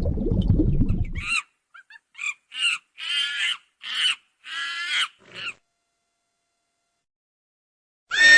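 A low rumbling noise for about a second, then a run of about seven short, high-pitched animal calls that stop about five and a half seconds in. A horse's whinny starts loudly right at the end.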